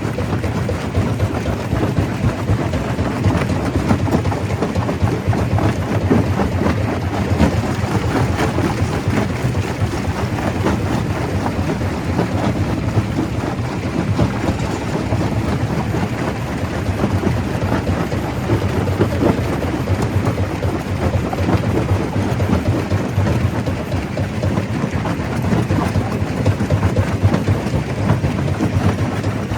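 Stone crusher running with rock going through it: a steady, dense rumble full of small cracks and clattering stone.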